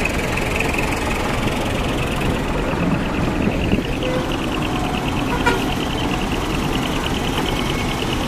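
Large trucks' engines running in a steady rumble.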